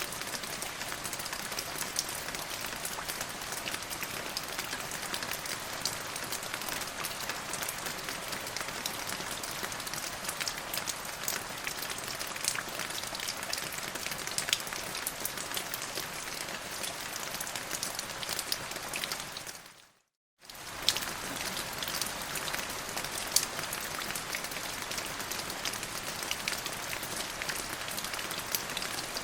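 Rain falling steadily, an even hiss of many small drop ticks. About two-thirds of the way through it fades out to silence for a moment, then fades back in and carries on.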